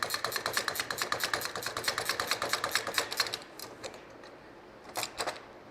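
Ratchet wrench clicking rapidly, about ten even clicks a second, as a bolt on a steel engine stand is run in. The clicking stops a little over three seconds in, with a couple of single clicks near the end.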